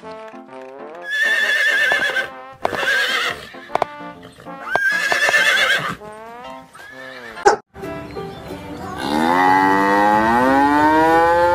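Horse whinnying three times in short, wavering, high-pitched calls, then a cow mooing in one long call that starts about nine seconds in, rises and then holds. Faint background music at the start.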